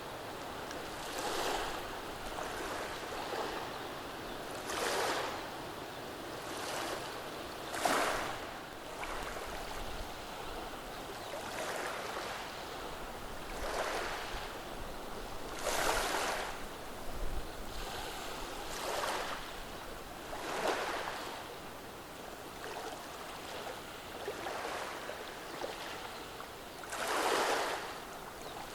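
Gentle waves washing over a beach of rounded cobblestones, each small wave a brief rushing hiss over a steady background wash, coming every couple of seconds.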